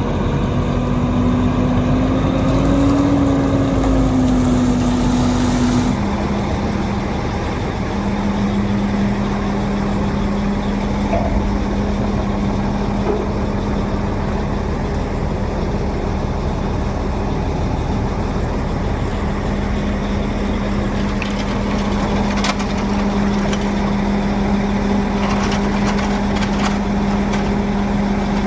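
A vehicle engine running steadily with a low, even hum. The hum changes abruptly in pitch about six seconds in, and a few light clicks come later on.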